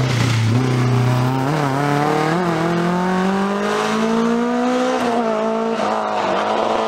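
Rally car engine under hard acceleration, its pitch climbing steadily for about four seconds, then dropping sharply at a gear change about five seconds in and easing down after it.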